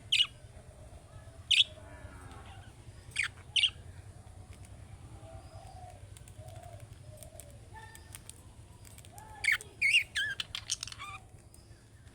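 Budgerigar calling: four short, sharp chirps in the first few seconds, then a quick run of warbled chirps about ten seconds in, over a faint low hum.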